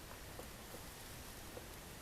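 A few faint light taps and clicks from the graphics card's cooler shroud and card being handled while the shroud is fitted, over a low steady hiss.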